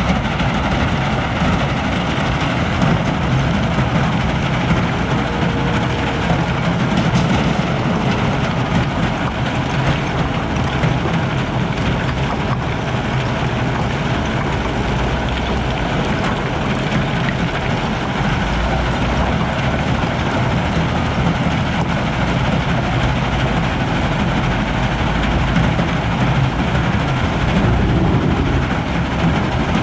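Cat 972M XE wheel loader's diesel engine running steadily at work, a loud continuous machine noise with a deep rumble.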